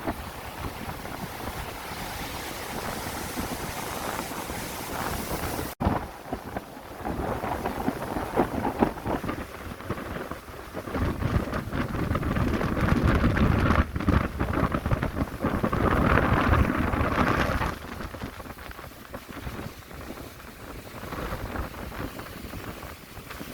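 Wind buffeting the microphone in steady gusts, with a heavier low rumble for several seconds in the middle and a brief cut-out about six seconds in.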